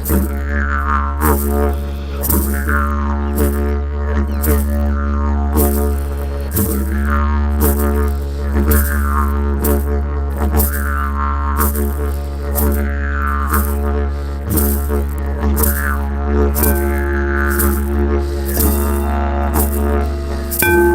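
Didgeridoo playing a continuous deep drone, pulsed in a steady rhythm, with repeated falling vowel-like sweeps in its overtones. A steady higher tone comes in right at the end.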